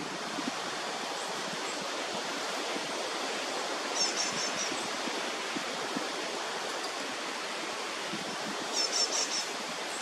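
Steady rushing outdoor noise, with two brief runs of three or four quick, high-pitched bird chirps: one about four seconds in and one near the end.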